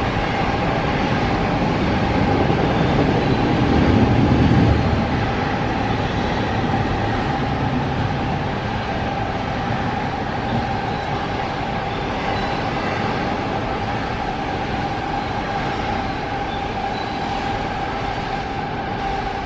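A freight train running past, with steady wheel-on-rail noise and a held tone. It is loudest about four seconds in, then eases off slowly.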